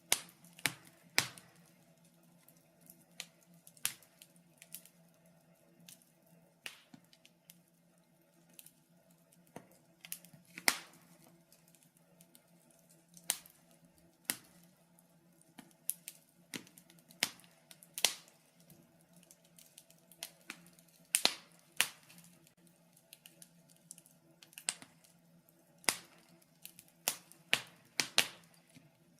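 Wood fire crackling in a fireplace: irregular sharp pops and snaps at uneven spacing, some much louder than others, over a faint steady low hum.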